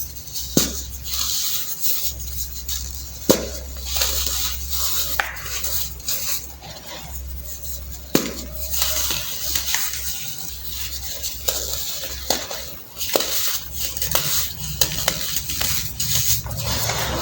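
Hardened baking soda being crushed and crumbled, a run of irregular crisp crunches and crackles.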